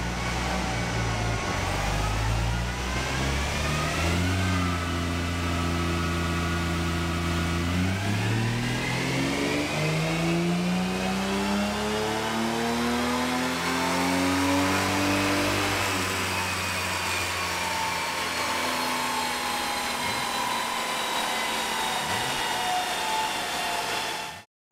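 Jaguar E-Type's 3.8-litre XK straight-six, converted to fuel injection, running on a rolling-road dyno, heard from inside the cabin. The revs hold steady for a few seconds, then climb smoothly for about seven seconds and fall away again.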